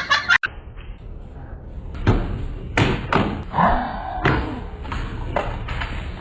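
A series of separate dull thumps and knocks, about six of them spread unevenly, with a short voice-like sound between them.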